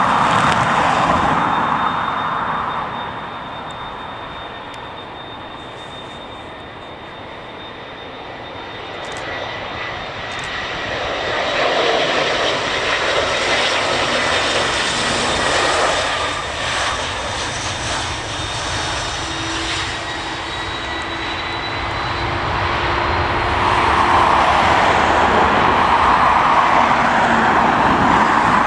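Airliner's engines running close by: a broad rush with a thin steady high whine over it, swelling and easing in loudness, loudest near the end.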